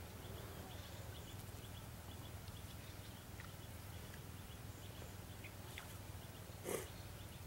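Quiet rural pond-side ambience: a low steady rumble under a small bird's short high chirps, repeated over and over. A brief knock sounds near the end, the loudest moment.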